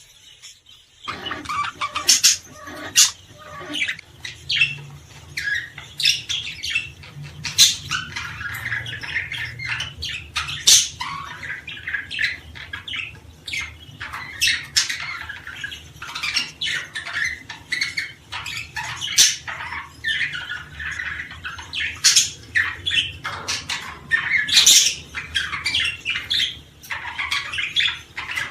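Many small songbirds chirping and calling together in a dense, busy chorus of quick, high notes. It starts about a second in, over a faint steady low hum.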